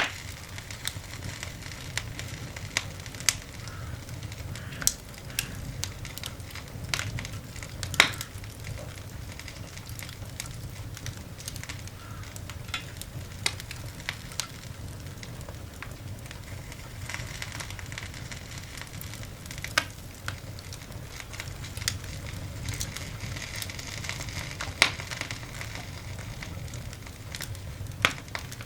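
Coal fire burning in a cast iron dog grate: a steady hiss and low rumble of the flames with irregular sharp crackles and pops, a few of them loud.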